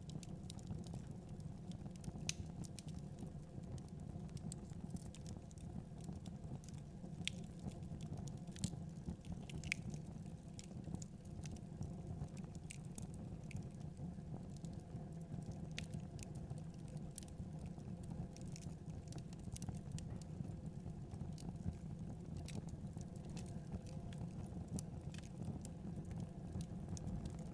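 Wood fire crackling in a fireplace, with scattered sharp snaps and pops over a steady low rumble.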